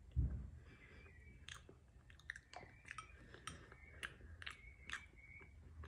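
A child chewing a mouthful of sticky fermented soybeans (cheonggukjang), with faint wet clicks scattered through it and a soft bump just after the start.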